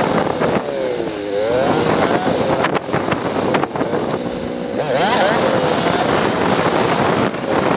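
Motorcycle engine running under way, its note dipping and climbing again twice as the rider works the throttle.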